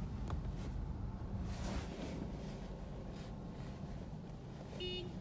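Low steady rumble of a car idling, heard from inside the cabin, with a brief hiss about a second and a half in. Near the end, a car horn gives one very short beep.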